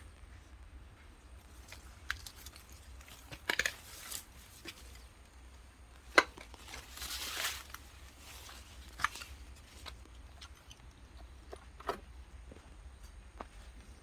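Scattered rustles and short clicks over a low steady hum, with a sharp click about six seconds in followed by a longer rustle.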